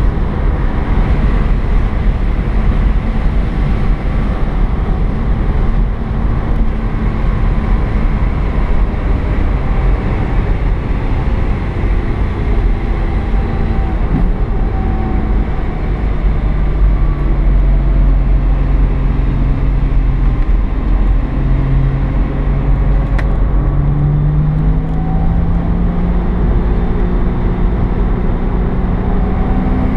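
Porsche 987 Boxster S flat-six engine running on the move, heard from inside the cabin over a steady tyre and road rumble. The engine note holds steady for a while, then rises in pitch a couple of times in the second half as the revs climb.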